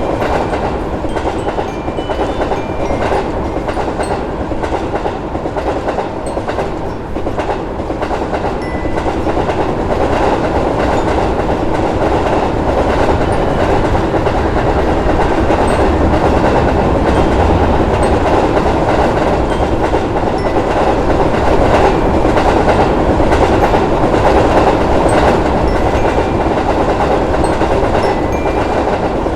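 A train passing: a steady rumble of wheels on rails with rapid clickety-clack over the rail joints, growing somewhat louder about ten seconds in.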